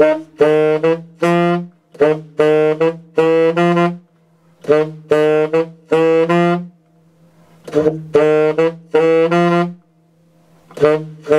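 Tenor saxophone playing a repetitive funky bass-line riff in its low register: short, detached notes in brief phrases, each phrase followed by a short break, repeating about every two and a half seconds.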